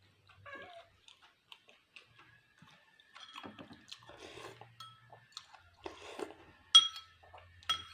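Eating and tableware noises: scattered small clicks and soft handling sounds, then two ringing clinks of a utensil against a dish near the end.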